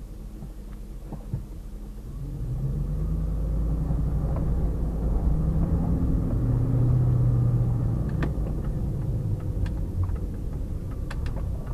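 Pickup truck engine heard from inside the cab, picking up and getting louder over a few seconds, then easing off. A few light clicks near the end.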